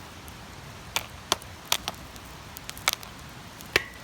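Wood campfire crackling: five or so sharp, irregular pops over a faint steady hiss. The last pop trails a short high whistle.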